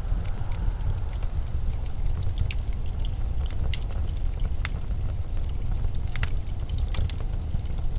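Steady low rumble of blizzard wind with no rise or fall, sprinkled with many faint, sharp ticks scattered irregularly through it.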